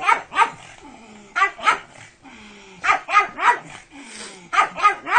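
Pug barking in quick runs of two or three sharp barks, with pauses of about a second between runs.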